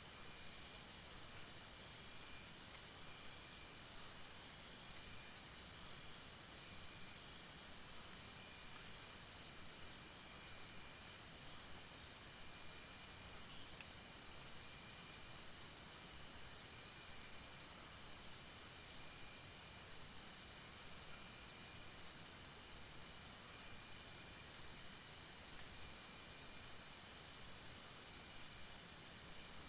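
Night insect chorus: a steady, rapid pulsing trill with a thinner steady tone below it, and short high chirps repeating every few seconds, all faint over a low hiss.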